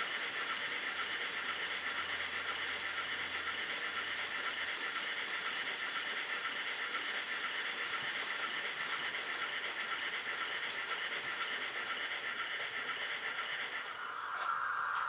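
H0-scale model trains running on the layout: a steady mix of small electric motor whir and wheels running on the rails. About 14 seconds in, the sound changes abruptly to a narrower, lower hiss.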